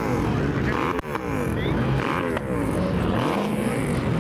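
Car engines revving repeatedly, their pitch rising and falling about once a second, with a short break about a second in.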